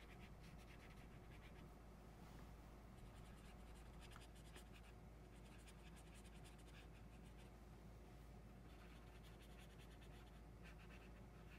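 Faint marker strokes scratching back and forth on paper while colouring in, in quick repeated runs.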